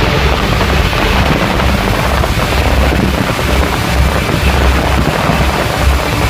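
A fireworks display going off in a dense, continuous barrage, the bangs running together into one loud rumble with crackle over it.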